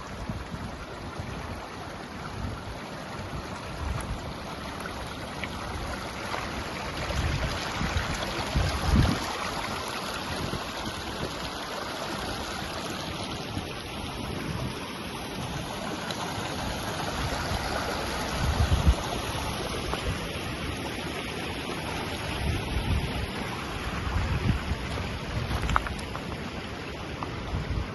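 Steady rushing of river water, with irregular gusts of wind buffeting the microphone.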